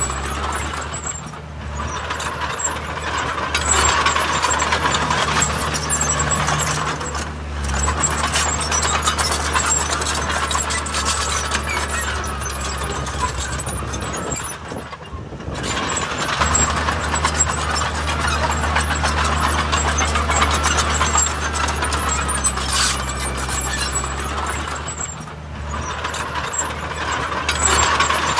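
Heavy diesel construction machinery running and working steadily, a low engine note with mechanical clatter over it. The level dips briefly several times.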